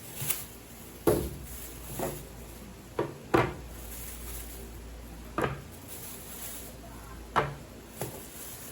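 Irregular light knocks and clacks, about eight in all, of household things being handled and set down, such as cupboard doors, drawers or dishes.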